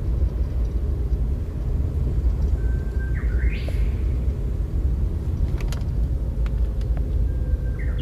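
A bird calls twice, a short whistle that sweeps up into a brighter note, over a steady low rumble. A few faint clicks come between the calls.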